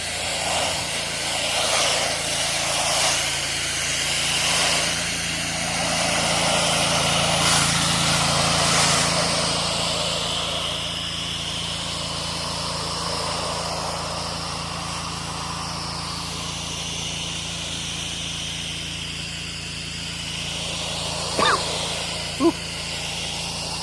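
An 8 GPM pressure washer's engine runs steadily while its water spray hisses against the house, the spray sound swelling and changing over the first ten seconds and then steadying. There are two short sharp knocks near the end.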